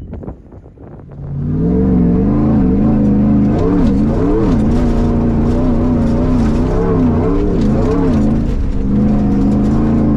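Off-road prerunner race truck's engine coming in loud about a second and a half in, then revving up and down over and over as the truck drives the track.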